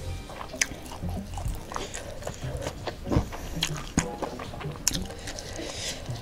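Close-miked eating: chewing crispy grilled chicken and rice, with many short sharp crunchy clicks, and fingers picking at food on a metal tray.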